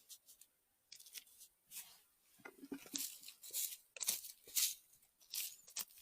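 Forest-floor litter (leaves, grass and twigs) rustling and crunching in irregular bursts, sparse at first and denser and louder from about two and a half seconds in, as someone moves and reaches through it.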